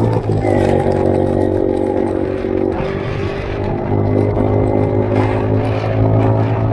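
Motorcycle engine running as it is ridden, its revs dropping at the start and then holding fairly steady.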